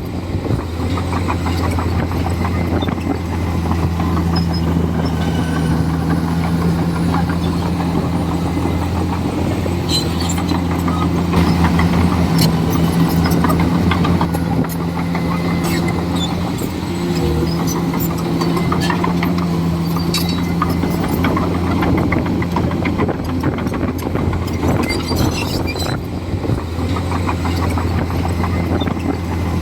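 Komatsu D41E bulldozer's diesel engine running steadily under load, a little louder about halfway through, with scattered clicks and cracks over it.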